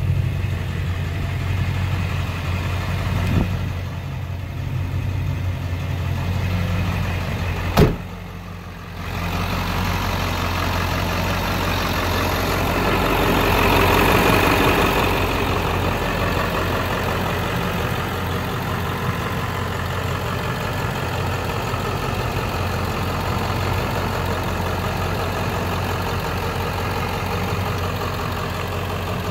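A Ford 7.3 Power Stroke turbo-diesel V8 running steadily at idle. There is a single sharp click about eight seconds in, and the sound swells briefly about halfway through.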